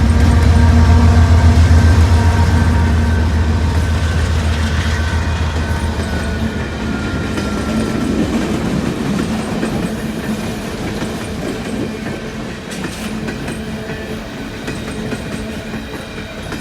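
Empty coal train passing: the low rumble of a diesel locomotive fades over the first six seconds or so, leaving the steady clatter of the coal cars' wheels over the rail.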